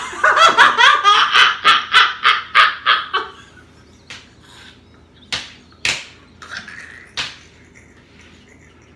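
Hearty laughter: a fast, rhythmic run of loud ha-ha pulses, about three a second, that dies away after about three seconds, followed by a few sharp clicks or taps.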